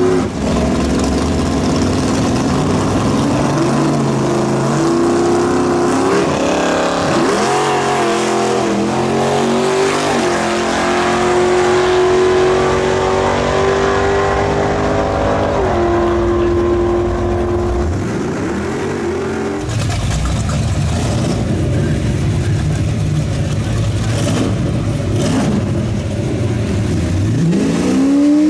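Classic AMC drag cars' engines at full throttle on a drag-strip launch: a burnout, then the revs climb and drop through gear changes, and the engine note is held steady as the cars run down the strip. Afterwards a low engine rumble from cars idling at the start line, then another engine revving up near the end.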